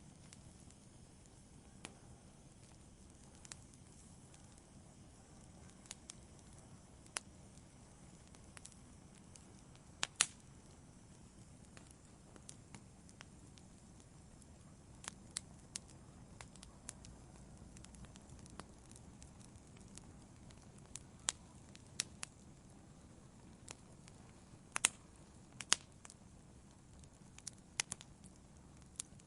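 Wood campfire burning with a low steady rumble and irregular sharp crackles and pops, the loudest about a third of the way in and again a little past the middle.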